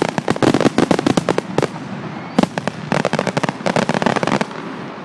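A fireworks display going off as rapid strings of sharp bangs and crackles. The bangs come in two runs, with the second starting about two and a half seconds in.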